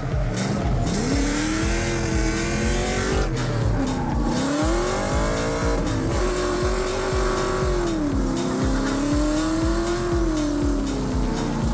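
Drift car engine revving up and down, its pitch rising and falling over a few seconds, with tire squeal from the car sliding. A steady beat from background music runs underneath.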